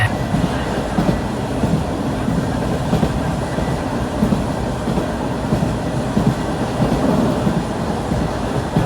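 A local passenger train running on the rails: a steady rumble with the clatter of wheels over rail joints.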